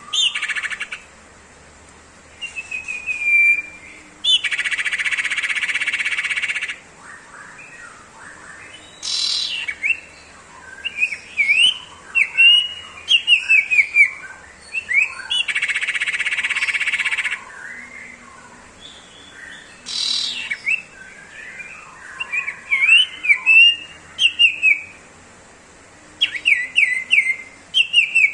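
Common iora (cipoh) singing. Long buzzing trills, the 'ngebrem' rattle, alternate with runs of quick sharp chirps and a couple of loud falling whistles.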